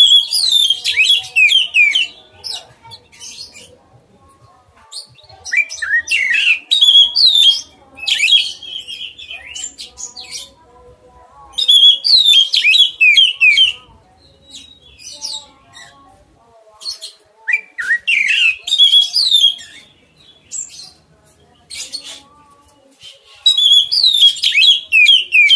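A songbird singing loud phrases of quick, falling whistled notes, one phrase every five or six seconds, with fainter chirps in between.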